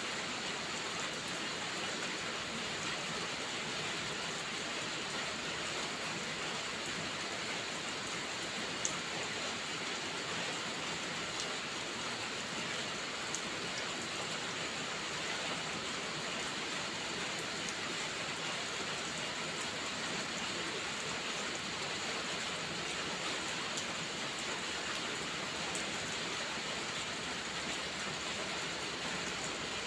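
Steady heavy rain in an even hiss, with a few sharp pops from a crackling wood fire; the sharpest pop comes about nine seconds in.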